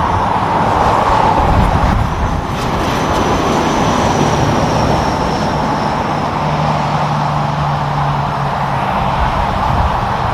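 Roadside traffic on a highway: vehicles passing with steady tyre and engine noise. A low engine drone from a passing truck comes in about four seconds in and drops away before the end.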